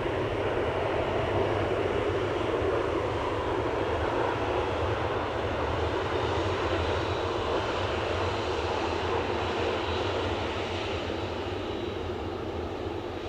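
Jet airliner departing under takeoff power: a steady, dense engine roar that eases slightly near the end.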